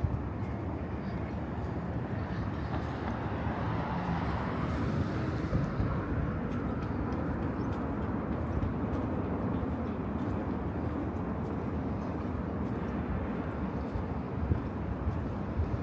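Outdoor city ambience: a steady rumble of distant traffic that swells a little for a few seconds near the start.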